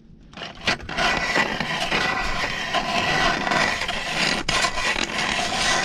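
Steady grinding scrape on ice, starting about half a second in and running on without a break.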